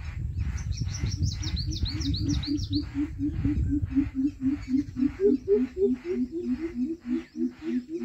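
Birds calling: a quick run of high, falling chirps in the first three seconds, over a loud low pulsing sound of about four beats a second that runs throughout and alternates between two pitches in the second half.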